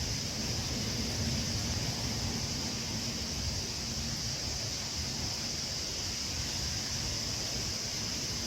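Steady outdoor ambience: low wind rumble on the microphone under an even high-pitched hiss, with no distinct bird calls.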